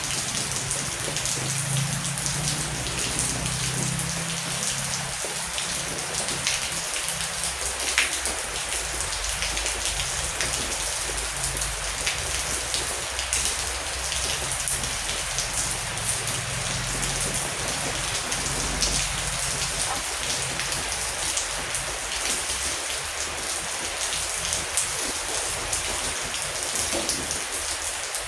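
Heavy rain falling steadily, a dense even hiss of drops on surfaces. A low rumble swells and fades underneath at times, and one sharper drop hit stands out about eight seconds in.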